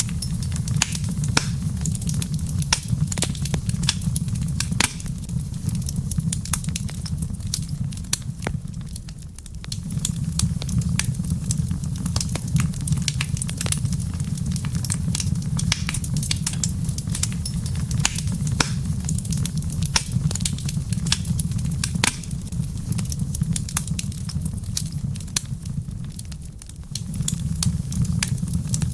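Wood fire in a fireplace crackling, with irregular sharp pops and snaps over a steady low rumble. The rumble fades briefly twice.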